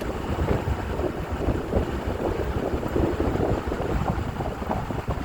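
An amphibious duck boat's engine running as the vehicle drives along, with wind buffeting the microphone.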